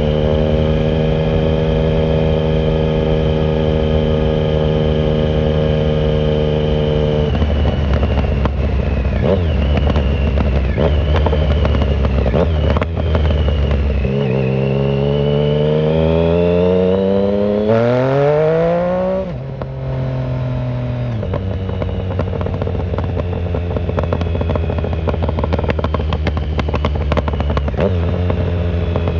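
2009 Triumph Speed Triple 1050's inline three-cylinder engine through a shorty Competition Werkes exhaust with no silencer, heard from the rider's pocket while riding. It runs at a steady pitch, then about halfway through it revs up hard, rising in pitch for several seconds, cuts off sharply, and settles back to steady running.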